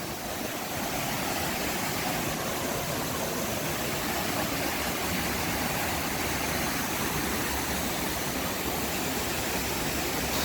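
Waterfall on a creek, water rushing steadily and evenly.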